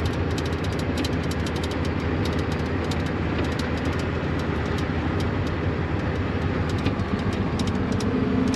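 Valmet tractor engine running steadily while it drives a Tokvam snow blower, with many short sharp clicks over the steady hum.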